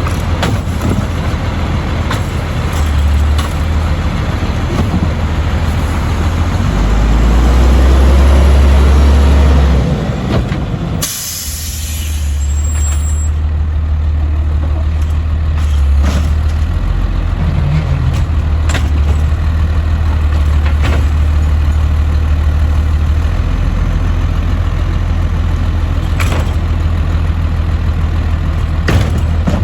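Autocar side-load garbage truck's diesel engine running, getting louder for a few seconds about a third of the way in. A short air-brake hiss comes about 11 seconds in, and then the engine settles back to a steady run with occasional clicks.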